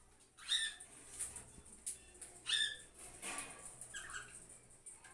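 Pet conures giving a handful of short, harsh squawks at irregular intervals.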